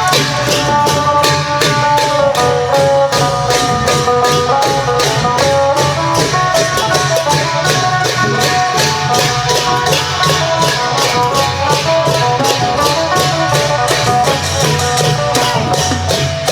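Isan long-drum (klong yao) band playing: a phin lute melody of held notes over long drums and a fast, steady patter of cymbal strokes.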